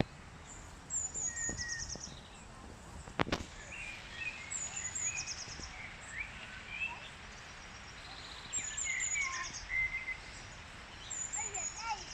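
Several songbirds singing outdoors: one repeats a high, thin phrase that drops into a quick trill every three to four seconds, while other birds chirp in between. A single sharp click sounds about three seconds in.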